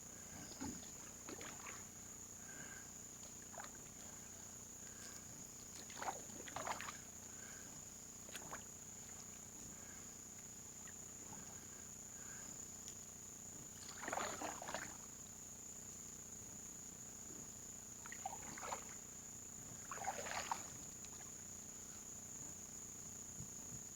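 Canoe paddle strokes in swamp water: short splashing dips, several of them in pairs a second or so apart, spaced several seconds apart, over a steady high-pitched drone.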